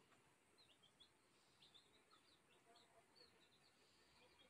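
Near silence, with faint, short, high chirps of small birds in the background.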